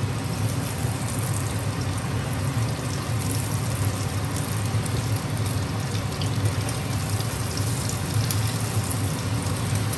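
Egg and bone-marrow omelette sizzling steadily in a generous amount of oil in a frying pan as a wooden spatula works it.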